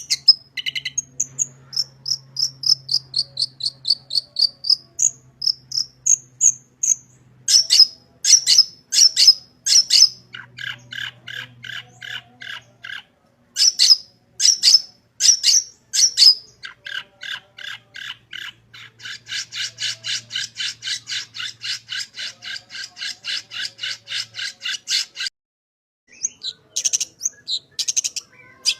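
Long-tailed shrike (cendet) singing a varied song full of mimicked phrases ('isian'): runs of quick whistled notes, loud sharp calls, and long fast buzzy trills like an insect. The song breaks off briefly near the end, then resumes.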